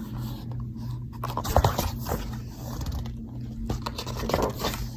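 Scraping and rustling handling noises, likely from the picture book's paper pages being handled, with a louder knock about a second and a half in and a steady low hum underneath.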